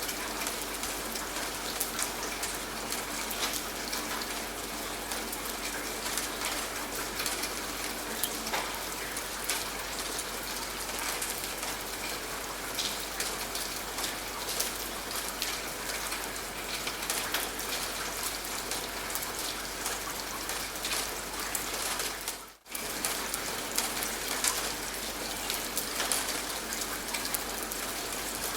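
Steady rain falling, with many individual drops ticking. The sound dips briefly to almost nothing about 22 seconds in, then resumes.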